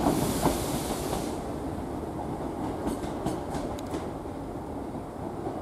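Class 321 electric multiple unit running slowly into the platform, its wheels clicking over rail joints as it slows, with a hiss in the first second or so.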